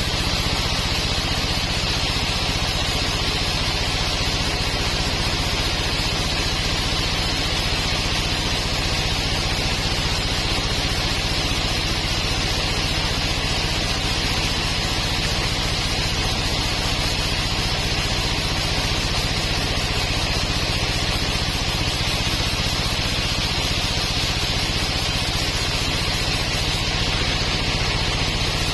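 Sawmill machinery running steadily: a constant low hum with a hiss of higher noise over it, unchanging throughout.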